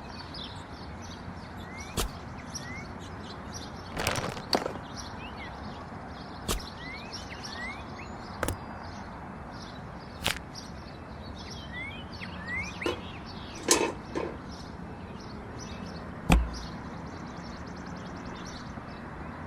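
Irregular sharp knocks and clicks, roughly one every one to two seconds, over a steady hiss, with a few faint short rising chirps.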